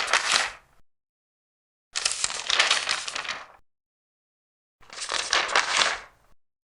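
Large paper pages being turned one after another, each a papery rustle with a crackle in it. One turn ends just under a second in, then two more come, each lasting about a second and a half, with dead silence between them.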